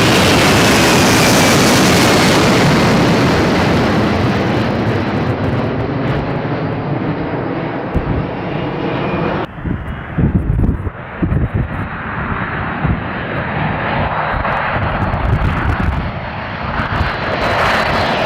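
Jet airliner passing close by, its engine noise loud with a whine that falls in pitch. About halfway through the sound cuts off abruptly to quieter jet noise with an uneven low rumble.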